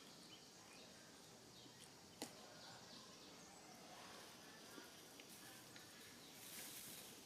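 Quiet outdoor ambience with faint bird chirps, a single sharp click about two seconds in, and a short rustle near the end.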